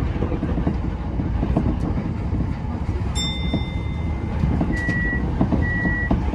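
Tokyo Metro 10000 series electric train running, a steady rumble of wheels on track with scattered clicks. About three seconds in, a high electronic tone sounds for about a second and a half, followed by two short beeps at the same pitch.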